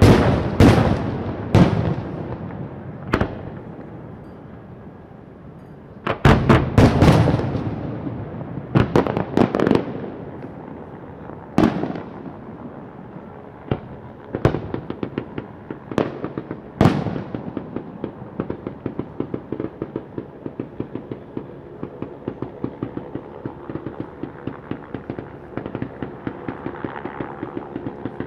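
Fireworks going off: a series of loud, sharp bangs with echoing tails, some in quick clusters, then from about halfway a long run of rapid, smaller crackling reports.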